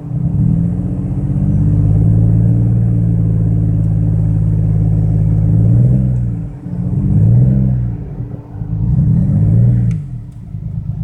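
BMW 335i's turbocharged straight-six being revved: held at raised revs for about five seconds, then dropping back and blipped twice more before settling. The engine is misfiring, which the owner puts down to cylinders 4, 5 and 6, with cylinder 6 worst.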